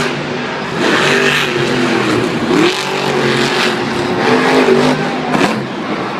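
Monster truck engine revving hard, its pitch rising and falling several times as the throttle is worked.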